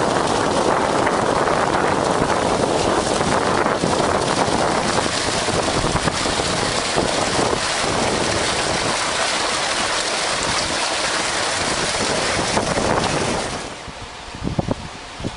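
Loud, steady rushing noise that drops away sharply near the end, leaving quieter rustling and crackling.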